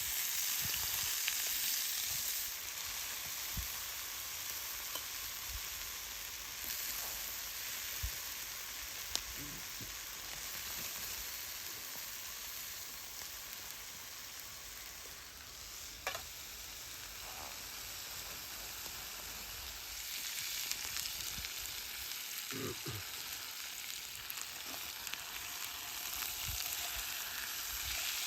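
Food sizzling and frying in a pan: a steady hiss with scattered small pops and crackles.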